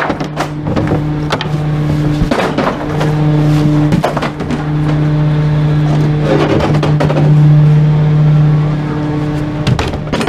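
Garbage truck engine running with a steady low drone, rising a little in level about two thirds through, while the truck's body and load clatter and knock repeatedly.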